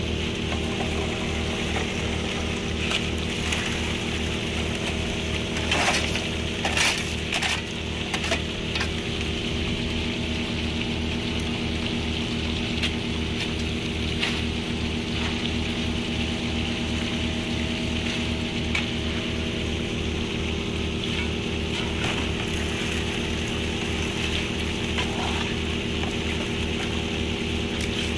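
Small engine-driven water pump running steadily, with water rushing through a high banker sluice. A few short knocks about six to eight seconds in.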